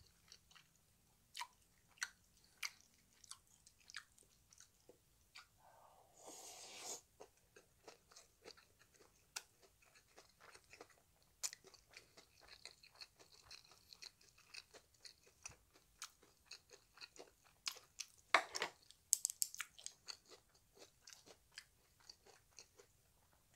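A person chewing and biting a meal of jjapaghetti noodles and kimchi fried rice, with irregular wet mouth clicks throughout. A longer rushing mouth sound comes about six seconds in, and the loudest bites come about three quarters of the way through.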